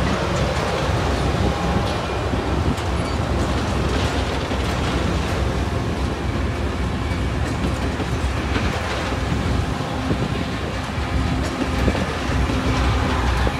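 Loram rail grinder train passing close by: a steady rumble of its diesel power cars and steel wheels on the rails, with scattered light clicks from the wheels.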